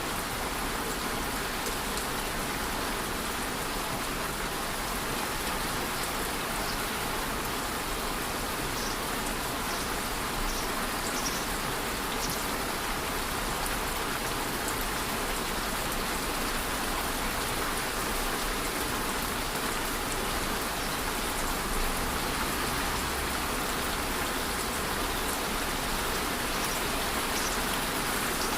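Steady rain falling, an even hiss of drops hitting a surface, with scattered individual drop ticks.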